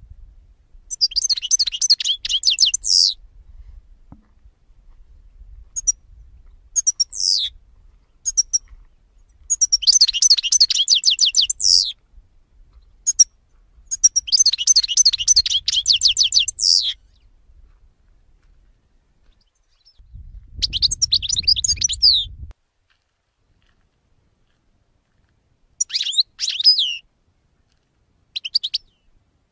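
Pet songbirds singing: phrases of fast, high twittering notes a second to three seconds long, repeated with short pauses between them. A low rumble sits under one phrase about twenty seconds in.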